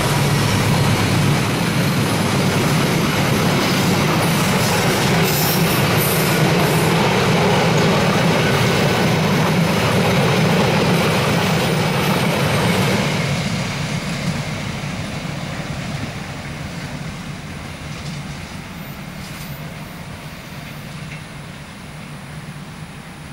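Passenger train coaches rolling past on curved track: a steady rumble and clatter of wheels on rail. About thirteen seconds in it begins to fade as the train draws away.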